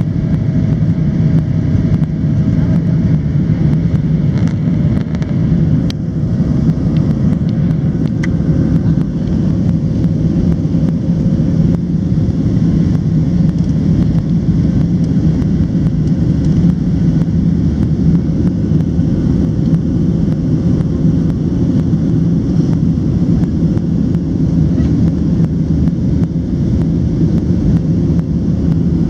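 Steady low rumble of a Boeing 737-700's CFM56 turbofan engines and rushing airflow, heard inside the passenger cabin in flight. An even drone with a low hum stays constant throughout.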